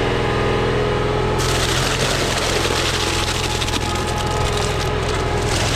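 A truck's engine running steadily. About a second and a half in, a rushing noise starts over it as a load of concrete is dumped.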